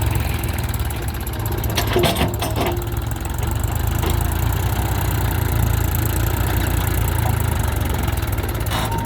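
Tractor diesel engine idling with a steady low rumble, with a few short clicks or knocks about two seconds in.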